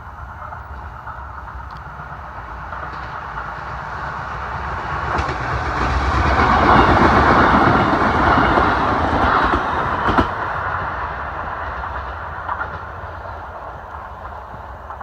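Chichibu Railway train passing the level crossing: its noise builds up, is loudest in the middle with the wheels rattling on the rails and a sharp knock about ten seconds in, then fades away.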